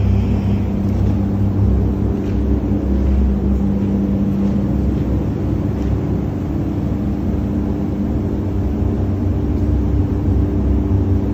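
Steady low mechanical rumble with a constant low hum, unchanging throughout.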